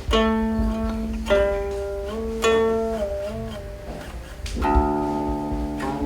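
Guqin (seven-string Chinese zither) played solo: four plucked notes, each left to ring, with the pitch sliding up or down during some of them as the fretting hand glides along the string.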